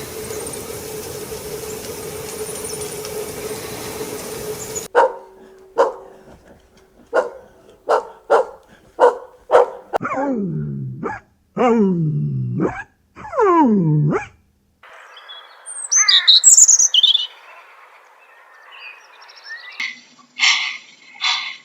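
Dog barking in short sharp barks, then several long cries that fall steeply in pitch, followed by a few bird chirps.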